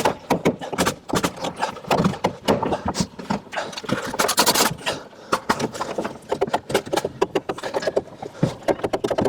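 Rapid, irregular sharp knocks and clatter of timber wall-framing work, with a brief hiss about four and a half seconds in.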